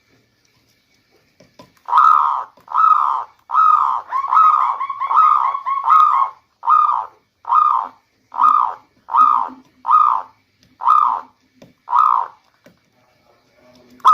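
Zebra dove (local perkutut) cooing: a run of about a dozen short, evenly spaced coos, starting about two seconds in, with the middle notes rolling into a trill.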